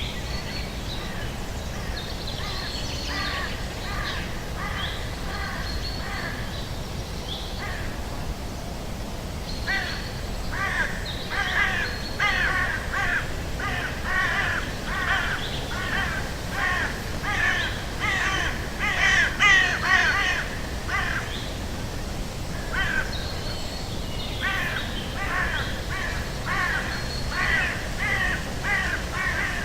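Crows cawing in long runs of quick, repeated calls. The calls are sparse and fainter at first, dense and loudest through the middle, and pick up again after a short pause near the end.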